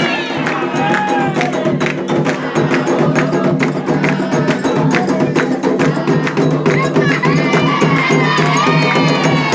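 Candomblé ritual music: a fast, dense run of drums and percussion under voices chanting together, with high wavering cries about seven seconds in.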